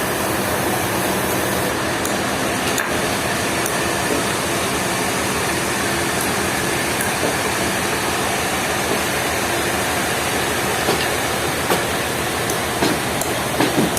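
Heavy machinery running steadily, a dense even noise, with a few short knocks toward the end.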